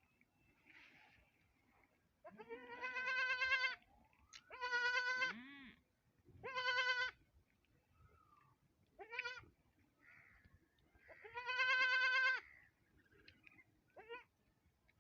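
A goat bleating again and again, about six wavering, quavering calls with short gaps between them. The longest and loudest calls come near the start and about three-quarters of the way through.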